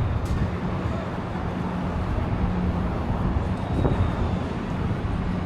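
Downtown street traffic: vehicle engines running with a steady low rumble and hum.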